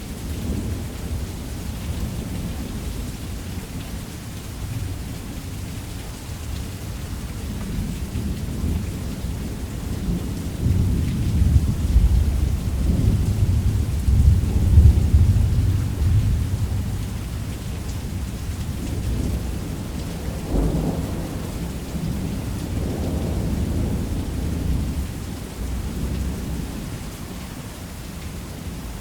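Thunderstorm: steady rain with low rolling thunder that swells to a long, loud rumble in the middle and comes back briefly a little later.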